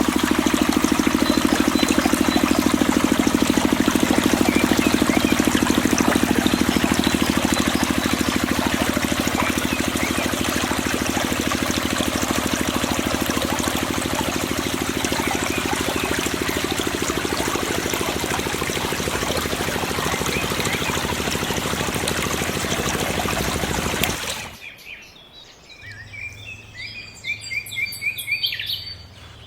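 Mini water pump running steadily, with water pouring and splashing from its outlet. It stops abruptly about 24 seconds in, leaving birds chirping.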